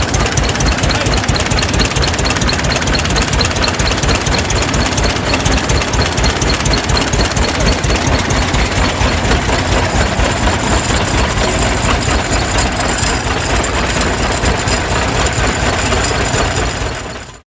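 An old farm tractor engine running at a steady speed with a rapid, even exhaust pulse. It fades out near the end.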